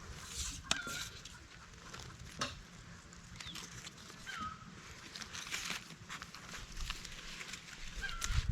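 An animal's short call, heard three times a few seconds apart, over scattered clicks and ticks.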